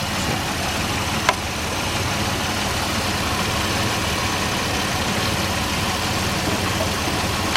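Pontiac Firebird engine idling steadily, with the steering wheel held turned so the newly replaced line is under pressure while it is checked for leaks. A single sharp click sounds about a second in.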